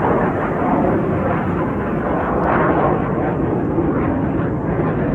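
Jet aircraft flying by: a loud, steady rush of engine noise with no clear pitch, swelling slightly midway.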